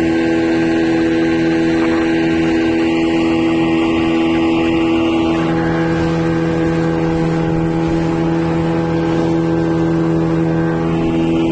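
Steady drone of a car driving at a constant speed, heard from inside the cabin: the engine hum holds one pitch over the rumble of the road.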